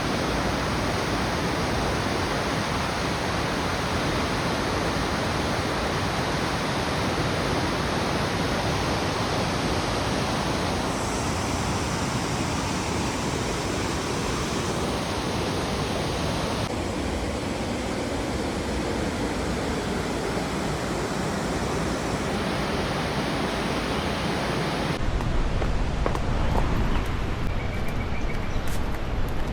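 Steady rushing roar of a waterfall, its tone shifting a few times. Near the end a deeper rumble and a few sharp clicks join in.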